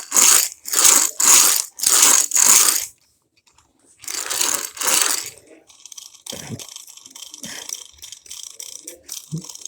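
A die-cast toy truck being handled: a run of short, evenly repeated scraping rattles, a pause, two more, then small clicks and light knocks of the toy's parts.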